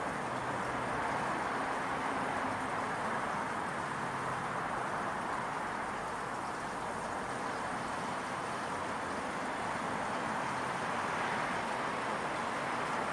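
Steady residential-neighbourhood ambience: an even, unchanging rush of noise with a faint low hum and no distinct events.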